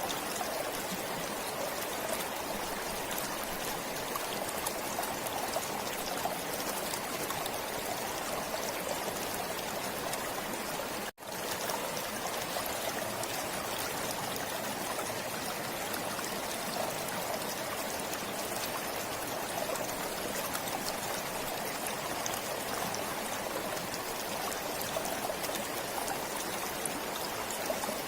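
A forest stream flowing steadily, water trickling and babbling over stones, with a momentary dropout about eleven seconds in.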